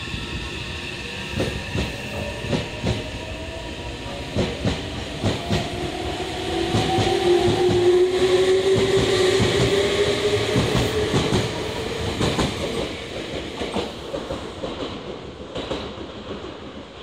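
Meitetsu electric train pulling out of the station, its motor whine rising slowly in pitch as it accelerates, with repeated clacks of the wheels over rail joints. The sound is loudest in the middle and fades as the train leaves.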